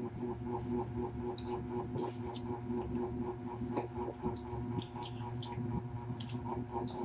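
Mukbang eating sounds: chewing and biting into crispy fried chicken by hand, heard as many small scattered clicks, crackles and mouth smacks, over a steady low hum.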